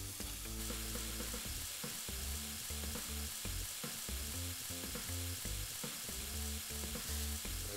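Chunks of soaked salt cod frying in hot oil in a skillet, a steady sizzle.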